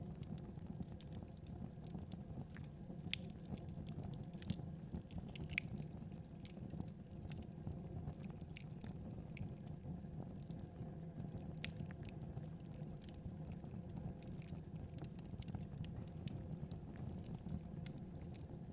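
Wood fire burning: a steady low rumble of flames with irregular sharp crackles and pops scattered throughout.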